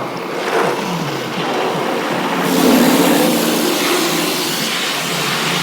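Car wash machinery running: a steady hum under a rushing, hissing wash noise that swells louder about two and a half seconds in.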